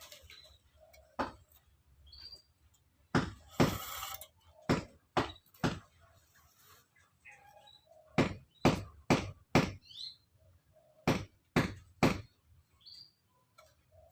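Sharp knocks struck in quick runs of three to five, with a short scrape about three and a half seconds in. Small birds chirp briefly now and then.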